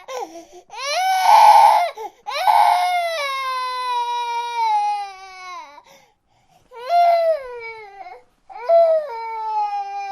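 A baby crying in long wails that fall in pitch. The first wails are harsh and loud; after a short pause about six seconds in come two shorter cries.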